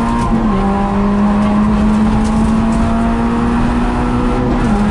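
Peugeot 106 rally car's engine heard from inside the cabin, running hard at high revs with its pitch climbing slowly as the car accelerates. The pitch drops suddenly twice, about half a second in and near the end, as the driver shifts up.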